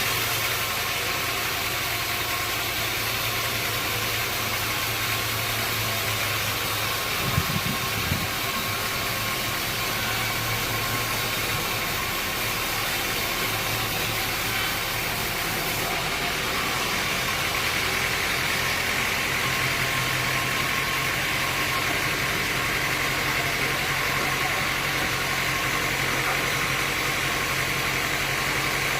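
Sawmill machinery running steadily, with a few short knocks about seven to eight seconds in.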